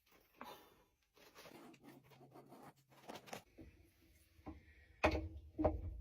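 Small scratching and clicking sounds of a hand screwdriver working at screws, then a louder knock about five seconds in.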